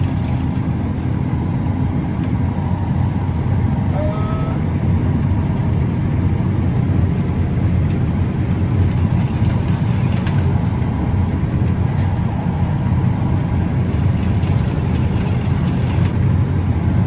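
Combine harvester running steadily while harvesting corn, a dense low rumble with a steady hum on top. A short faint chirp sounds about four seconds in.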